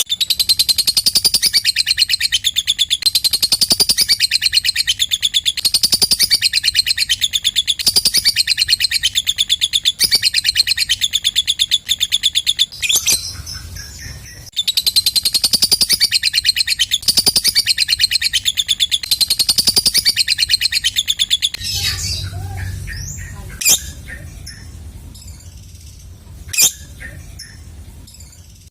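Lovebird ngekek: a long, fast, unbroken chattering trill. It breaks off briefly about 13 seconds in and resumes, then stops about 22 seconds in, giving way to scattered single chirps, two of them sharp and loud.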